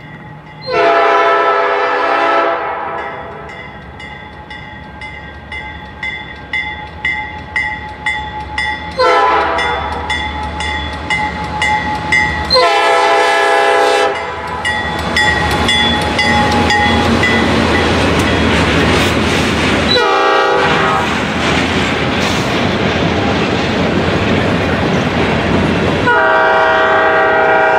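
Freight train's diesel locomotive horn sounding five blasts as it nears a level crossing: the first about a second in, then shorter ones, and a long one near the end. The lead GE C44-8M locomotive passes close by with a heavy engine rumble, followed by freight cars rolling and clattering over the rails.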